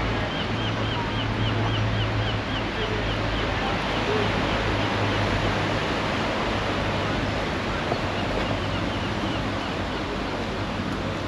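Sea waves and surf washing steadily along the shore, with a steady low hum underneath. A run of short high chirps, about three a second, comes in the first few seconds and again near the end.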